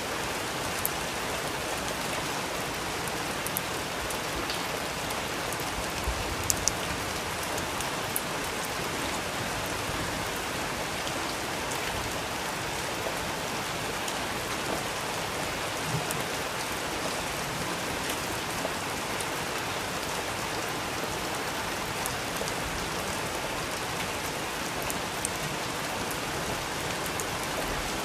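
Steady rain falling, an even hiss of rain with a few brief sharp ticks scattered through it.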